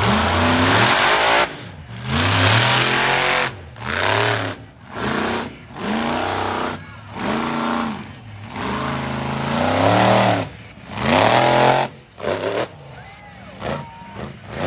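Monster truck engine revving in repeated throttle blips, each rising and falling in pitch, about one a second, the loudest and longest about two seconds in and again near ten seconds in, then shorter and fainter blips near the end.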